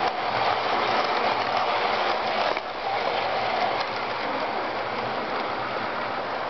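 HO scale Jouef Amtrak Turbo train model running on sectional track: a steady whir from its original motor together with the rolling of its wheels over the rails. It gets quieter about two and a half seconds in.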